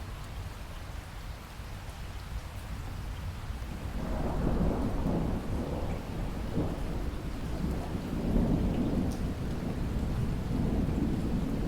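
Steady rain with a long rumble of thunder that swells about four seconds in and rolls on, peaking again near the end.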